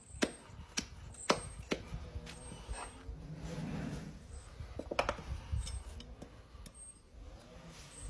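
Hoof-cleaning tools scraping and clicking against a horse's hoof: sharp clicks and scrapes at irregular intervals.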